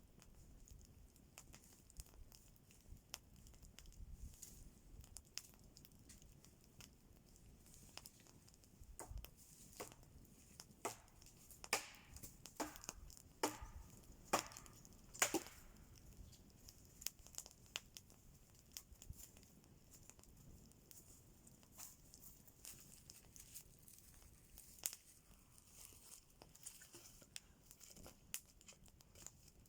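Scattered faint crackles and clicks, with a run of louder snaps about halfway through.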